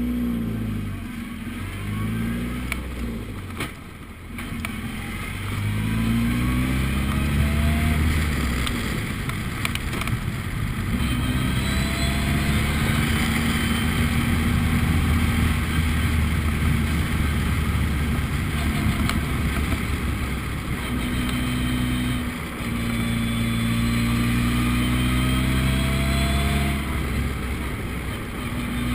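Formula Ford race car engine under hard acceleration, its pitch climbing through the revs and dropping back at each gear change. There are short lifts off the throttle about four seconds in and again near the three-quarter mark.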